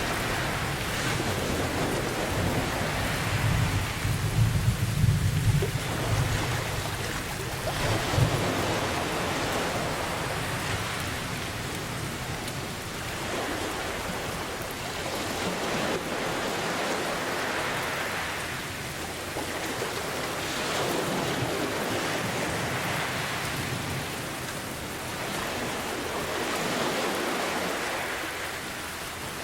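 Steady heavy rain hissing, with a low rumble of thunder from about three to eight seconds in. Ocean waves swell and fall back every few seconds beneath the rain.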